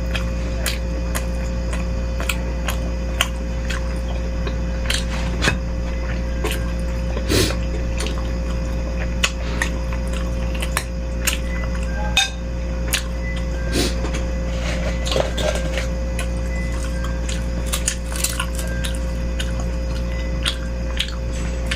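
Spoon and cutlery clicking against a bowl while eating meatball soup, in many short, irregular clinks, over a steady low hum.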